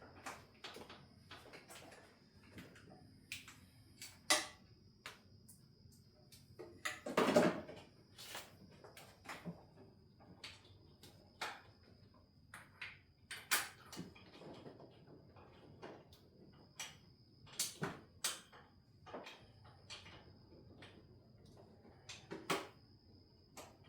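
Irregular clicks, taps and knocks of hand tools and parts being handled while a wiring harness is worked loose from an engine, with a louder clunk about seven seconds in. A faint steady high whine runs underneath.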